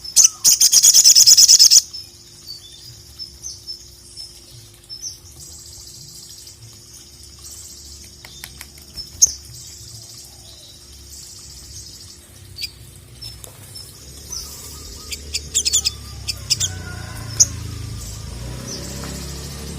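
Crimson sunbird (sogok ontong) singing: a loud, rapid high-pitched trill in the first two seconds, then repeated thin high chirps and short phrases. A low rumbling background comes up in the last few seconds.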